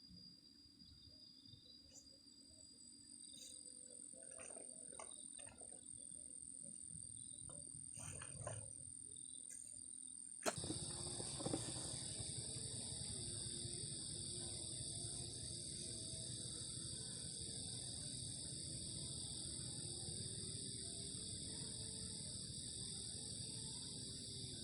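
Insects chirring in several steady high-pitched tones, with a few soft knocks in the first half. About ten seconds in, a sharp click is followed by a sudden jump to a louder, denser insect chorus over a low rumbling haze.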